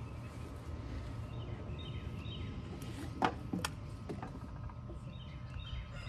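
Birds chirping in short repeated calls over a steady low background rumble, with one brief sharp sound a little after three seconds in.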